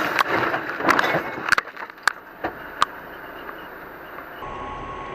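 Vehicle road noise broken by several sharp knocks or impacts over the first three seconds. The sound changes abruptly to a quieter, steady hiss with a faint high tone near the end.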